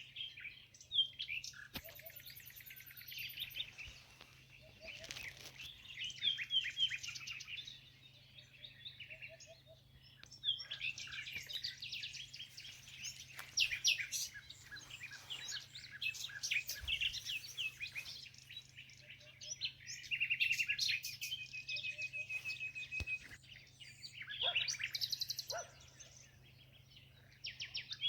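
Several songbirds singing and chirping at once, overlapping phrases of quick chirps and rapid trills, with a few very high thin trills.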